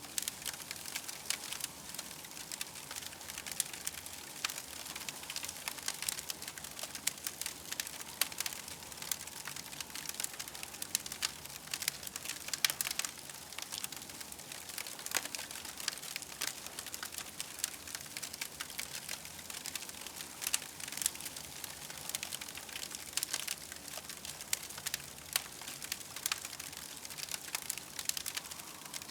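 Wood campfire crackling steadily, with many small irregular pops and snaps.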